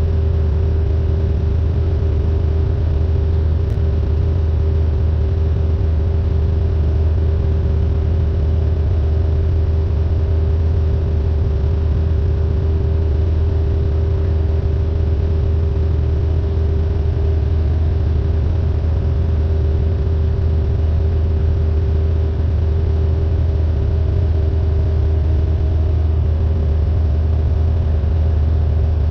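Cessna 172N's four-cylinder Lycoming engine and propeller running steadily, a constant drone with a heavy low hum and a steady mid-pitched tone.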